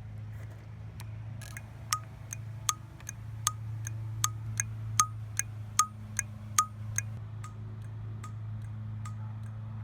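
Evenly spaced sharp mechanical clicks, nearly three a second, starting about two seconds in and fading near the end, over a steady low hum.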